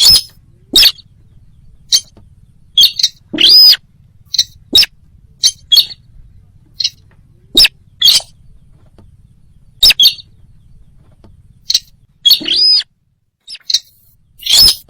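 Sintar bird lure call: short, sharp, high chirps that rise and fall in pitch, repeated at irregular spacing about one or two a second, some in quick pairs.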